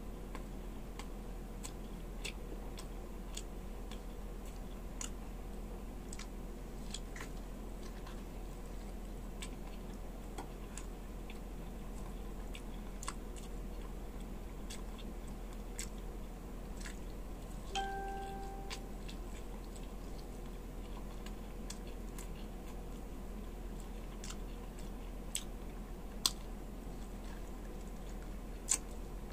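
Faint mouth-closed chewing of fried bulalo (beef shank) and veal foot meat, with scattered wet mouth clicks and smacks at irregular intervals over a steady low hum. A short beep sounds about two-thirds of the way through.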